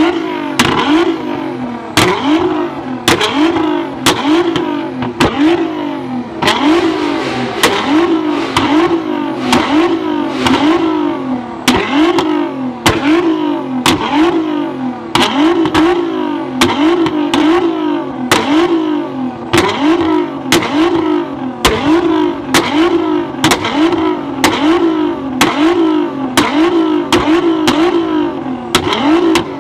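A performance car engine revved hard over and over, about once a second, the pitch shooting up and dropping back each time. A sharp exhaust crack or pop comes with every blip.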